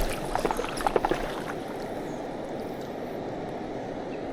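River water rushing steadily past, with a few short clicks in the first second and a half.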